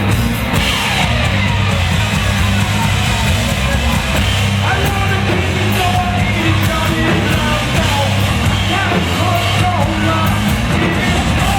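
Hard rock band playing live and loud, with a heavy, steady bass and sung, shouted vocals over the instruments.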